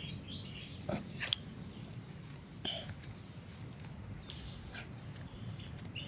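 A bird chirping a few short times over a low steady rumble. Two sharp clicks come about a second in.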